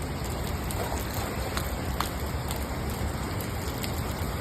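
Steady rain falling, with a couple of sharper drop ticks about two seconds in.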